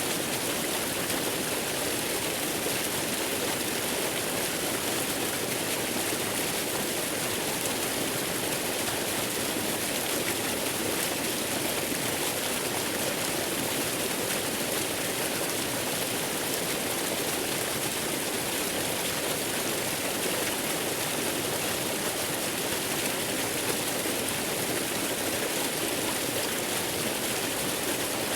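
Waterfall rushing steadily, one even, unbroken hiss of falling water with no change in level.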